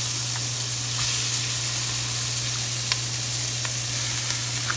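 Chopped, freshly rinsed cabbage frying in hot bacon drippings in a stovetop pot: a steady sizzle with a few scattered small pops.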